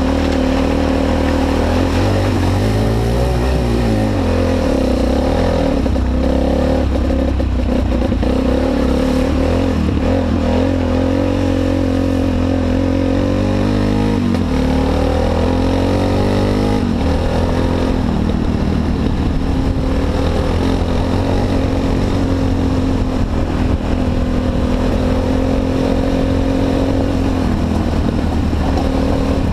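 Honda XR250 Tornado's single-cylinder four-stroke engine running while riding. Its pitch rises and falls with the throttle in the first half, then holds steady.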